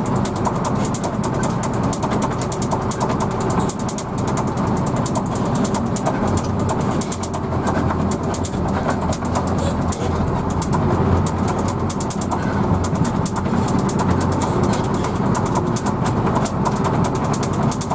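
Inside a moving Hino AK coach: steady engine drone and road noise, with fast, continuous rattling from the bus body. The engine's low hum grows stronger from about six seconds in and eases again near fourteen seconds.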